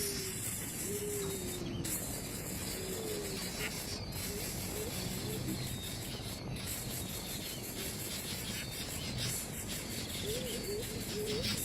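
Steady high insect buzzing, crickets or cicadas, with a few short, low whistled calls, several near the start, in the middle and near the end.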